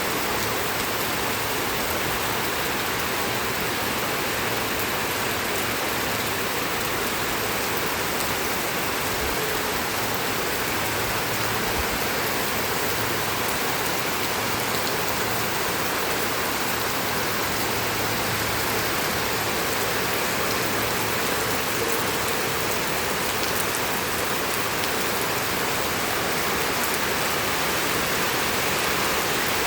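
Steady rain falling, a constant even hiss of drops with no letup.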